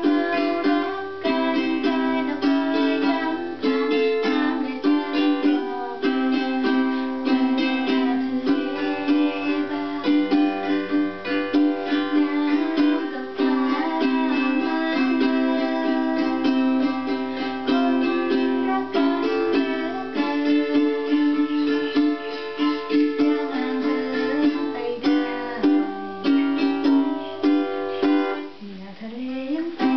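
Instrumental music on a plucked string instrument: a run of quick plucked melody notes over sustained lower tones, with a brief dip and a rising slide near the end.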